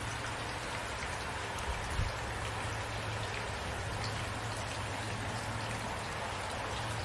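Steady rain falling: an even hiss with scattered drop ticks and a steady low hum underneath. There is a brief low thump about two seconds in.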